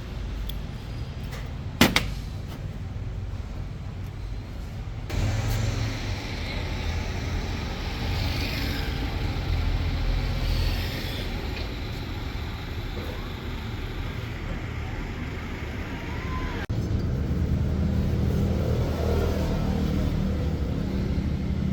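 Low, steady vehicle engine rumble, with one sharp metallic clank about two seconds in. The background sound changes abruptly twice.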